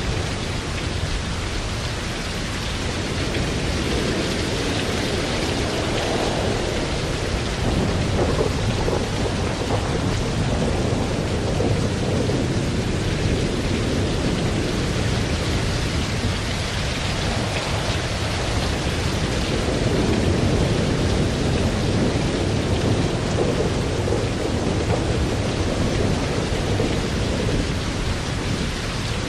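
Steady heavy rain with rolling thunder rumbling underneath, the rumbles swelling and fading several times.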